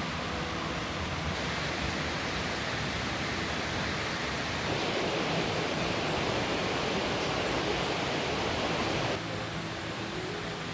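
Steady rushing noise of water, louder from about five to nine seconds in.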